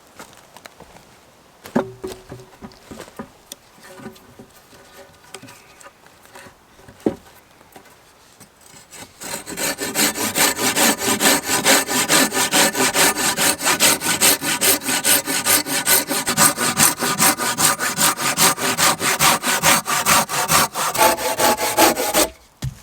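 A few wooden knocks and handling sounds, then a hand saw cutting wood with fast, steady back-and-forth strokes that stop suddenly near the end.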